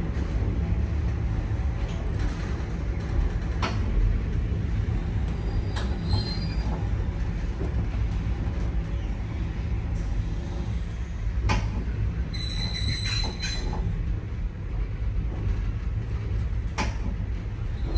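Nankai 2200-series railcar running, heard from inside the passenger car: a steady low rumble of wheels on rail with occasional sharp clicks. Brief high-pitched wheel squeals come through, the longest a little past halfway, typical of the line's tight mountain curves.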